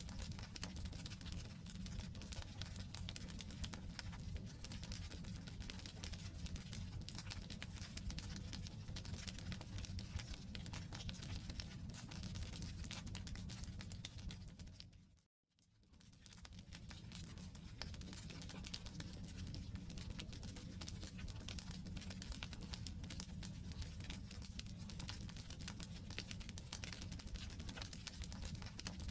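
Wood campfire crackling and popping in a dense, irregular patter of small snaps over a low rumble of the flames. About halfway through, the sound fades out to silence for a moment and then fades back in.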